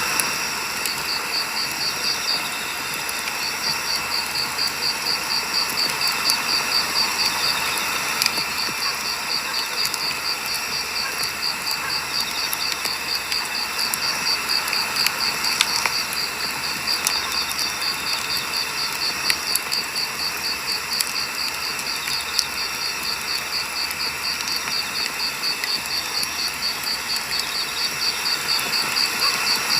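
Burning firewood crackling, with irregular sharp pops and snaps over a steady hiss. A fast, high-pitched pulsing trill runs alongside it, pausing briefly twice.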